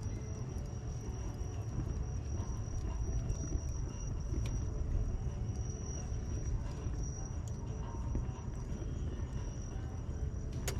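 Wood bonfire burning with a low, steady rumble and scattered small crackles and pops, one sharper pop near the end. A steady high-pitched tone runs under it.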